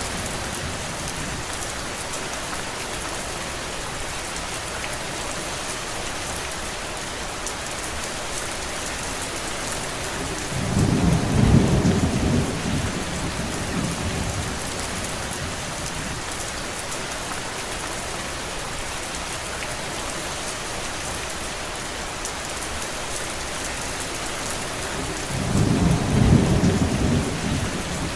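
Steady rain, a dense even hiss with scattered drops. Two low rumbles a few seconds long rise over it, one about ten seconds in and one near the end.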